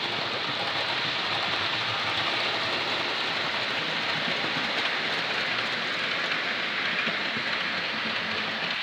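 Model locomotive running on the track: a steady whirring, rolling noise of motor and wheels on rail.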